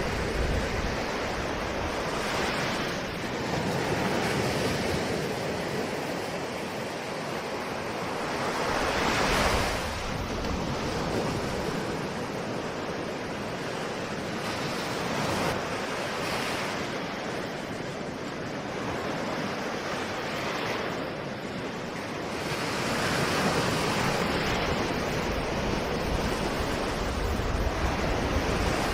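Ocean surf: a continuous wash of waves, swelling louder every several seconds as each wave breaks and recedes.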